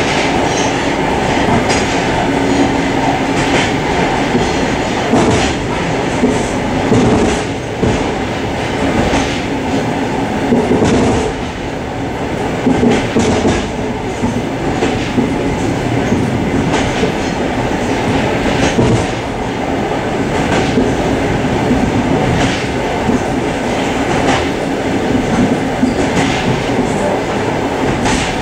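Suburban passenger train heard from inside its vestibule while running at speed: a steady rumble of wheels on rail, with clicks every second or two as the wheels cross rail joints.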